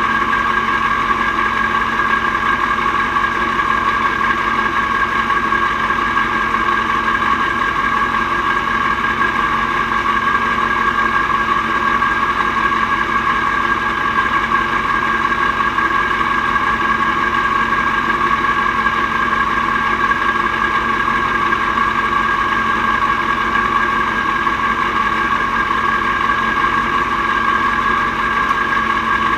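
Mack R-series truck's V8 diesel engine running at steady, unchanging revs, an even drone with no rise or fall in pitch.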